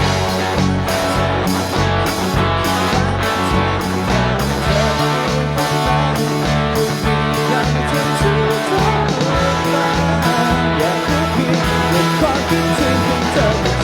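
Live band playing an instrumental passage with guitar over bass and drums, keeping a steady beat.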